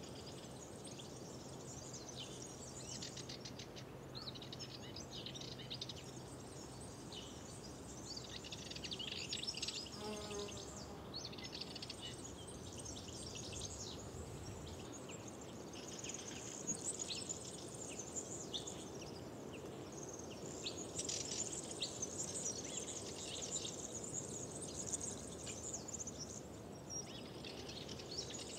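Many songbirds singing at once, a dense chorus of overlapping chirps and trills over a soft steady background of outdoor noise. A faint low hum is under it for the first several seconds.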